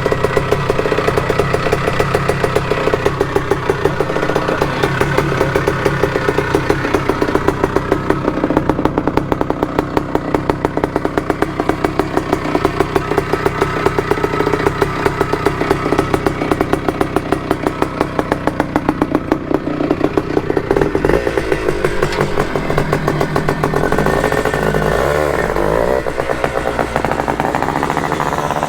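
1973 Penton Berkshire 100's two-stroke single-cylinder engine running steadily at low revs with an even pulsing beat, then revving up and down over the last several seconds.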